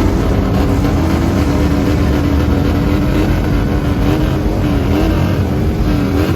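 Motorcycle engine held at high revs, a loud steady engine note that wavers slightly up and down in pitch in the last couple of seconds.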